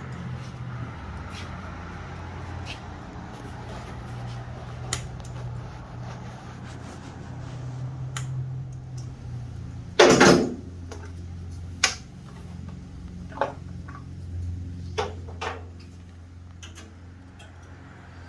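Scattered clicks and small knocks of hand tools being handled during wiring work, with one louder clatter about ten seconds in, over a steady low hum.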